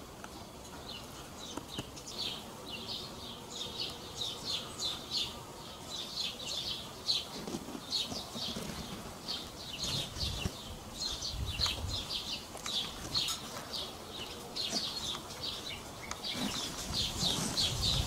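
Small birds chirping over and over, short high chirps coming several a second and thickest near the end. A low rumble rises twice, around ten seconds in and again near the end.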